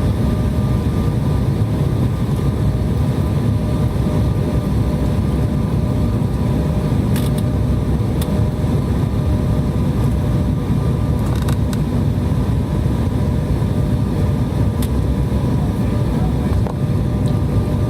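Steady jet cabin noise heard from inside a regional airliner: the engines and airflow make a deep, even rumble with a few faint steady tones on top. A few brief clicks come through, around the middle.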